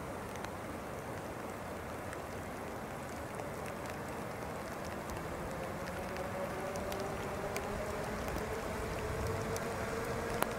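A train approaching: a steady hiss slowly grows louder, and a faint whine rises in pitch over the second half.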